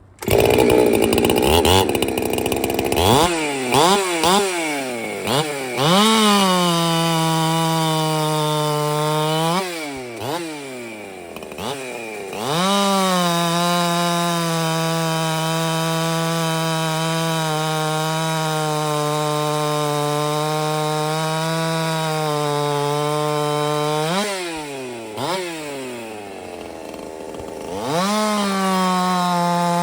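Husqvarna 372 two-stroke chainsaw starts up loud and is blipped up and down several times. It is then held at high revs for long steady stretches while bucking an oak log. The revs drop back and climb again twice between cuts.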